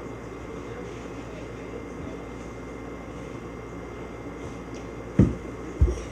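Two heavy thumps about two-thirds of a second apart near the end, a child landing jumps on the floor, over a steady low hum.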